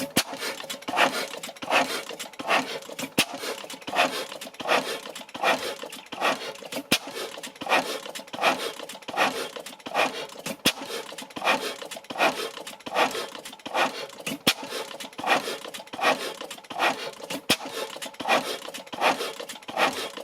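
Blackstone 3 hp single-cylinder oil engine running on test with an even beat of about two strokes a second. A sharp click sounds every three to four seconds.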